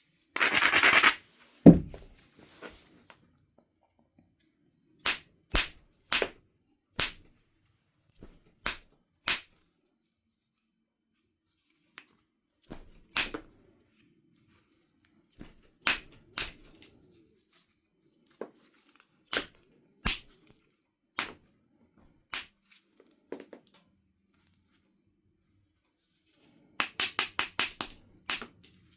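Knife River flint biface being flintknapped: sharp clicks of flakes struck or pressed off the stone, coming singly every second or so. There are short runs of rapid scratchy strokes on the edge near the start and again near the end.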